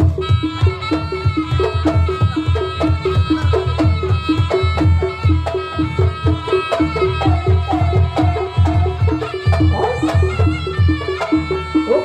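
Live Javanese jaranan ensemble music: a fast, even drum rhythm with a repeating figure of pitched percussion notes and a sustained melody line held over it.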